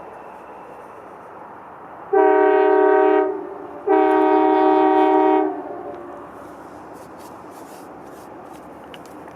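Diesel locomotive air horn sounding two blasts, the second a little longer, over the steady rumble of a passing train.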